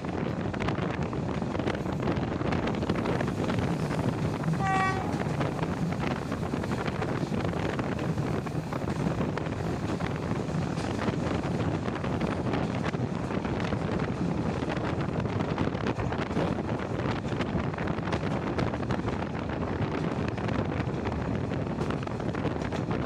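Passenger train running on the rails, recorded at an open carriage window: a steady rumble of wheels on track mixed with wind on the microphone. A brief high tone sounds once, about five seconds in.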